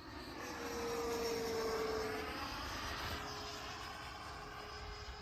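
Twin 70 mm electric ducted fans of a Freewing B-2 Spirit RC jet whining and rushing as the model flies past. The sound swells to its loudest about a second or two in, and the whine drops slightly in pitch as it passes before fading.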